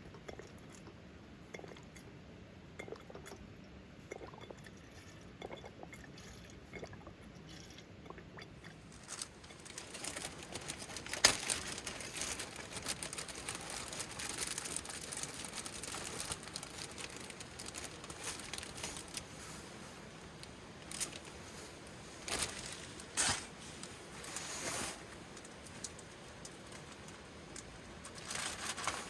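Food-preparation handling sounds: faint light clicks and crinkling, then, about a third of the way in, a steady hiss sets in, with one sharp knock and a few later clinks and knocks.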